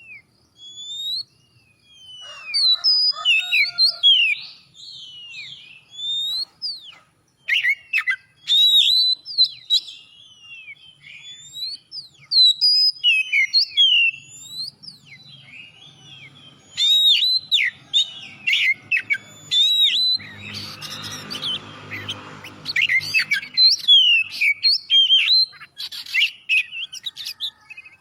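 Oriental magpie-robin singing in full, varied song: a fast run of whistled notes and chirps that sweep up and down. About two-thirds of the way through, a low buzzing sound joins in for about three seconds.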